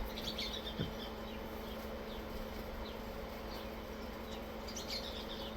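Quiet outdoor ambience with a steady insect buzz, and a few faint high chirps near the start and again near the end.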